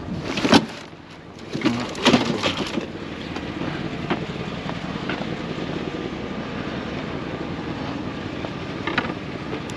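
Objects being handled and knocked together: a sharp knock just under a second in and a cluster of clattering knocks around two seconds in. After that only a steady background rumble, with one more knock near the end.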